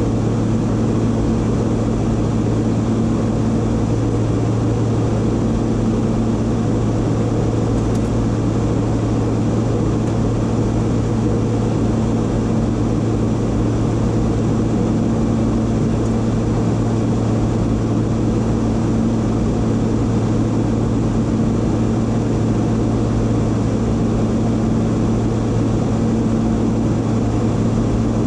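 Private jet in level flight: a steady, unchanging rush of engine and airflow noise with a constant low hum under it.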